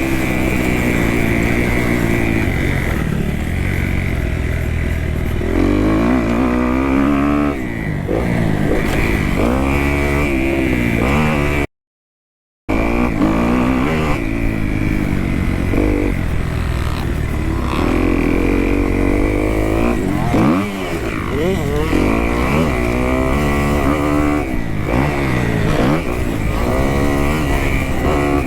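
2018 Kawasaki KX250F four-stroke single-cylinder dirt bike engine revving up and dropping back over and over as the rider works through the gears and brakes around the motocross track. The sound cuts out completely for about a second near the middle.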